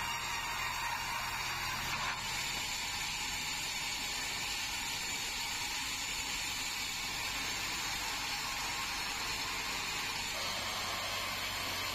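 Band sawmill running, a steady mechanical whir over a low hum, changing slightly about two seconds in and again near the end.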